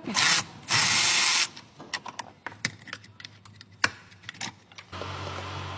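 Workshop tool noise from work in an engine bay: two short, loud bursts of hissing noise in the first second and a half, then scattered clicks and knocks of tools on metal parts, and a steady low hum starting near the end.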